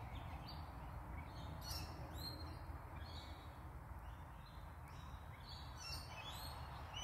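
A flock of rainbow lorikeets calling high in the trees: many short, high, scratchy screeches scattered throughout, over a low steady background.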